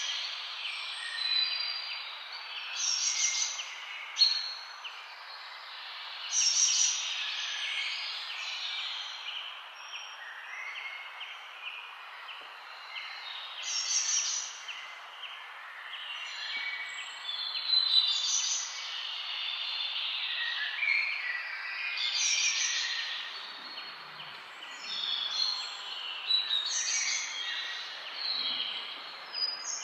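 Birds chirping and singing, many short high calls in clusters every few seconds, over a steady hiss.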